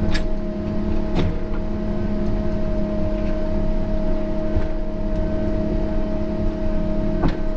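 Diesel engine of a John Deere tracked feller buncher running steadily with a held whine, with three sharp knocks or clanks: at the start, about a second in, and near the end.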